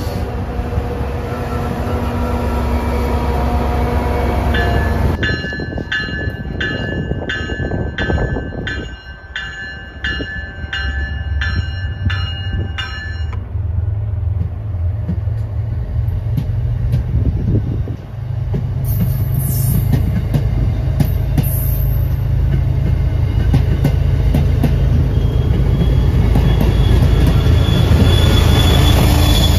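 MBTA commuter rail train of bilevel coaches and a locomotive passing close by, with a steady rumble of wheels on rail that swells over the last ten seconds. From about five seconds in to about thirteen seconds, a ringing tone repeats evenly, about one and a half times a second.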